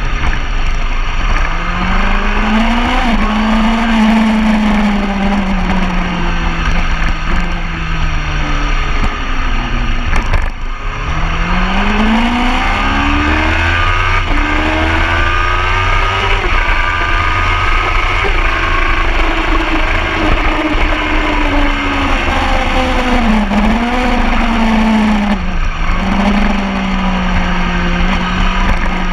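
Superbike engine at racing speed, its pitch climbing through the revs and dropping back over and over as it is worked through the gears. There are two sharp, brief breaks in the sound, about ten seconds in and near the end.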